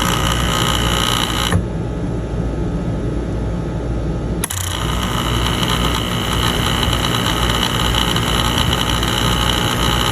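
De'Longhi coffee machine's water pump buzzing steadily. It drops off for about three seconds, comes back in with a click and cuts off near the end. It runs without drawing water: the machine reports the water circuit empty, and the repairer thinks an air lock may be stopping water from reaching the pump.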